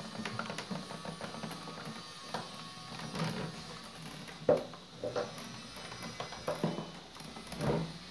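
Irregular clicks, scrapes and knocks of a screwdriver and hands working on the screws and plastic housing of an espresso machine, with one sharper knock about four and a half seconds in.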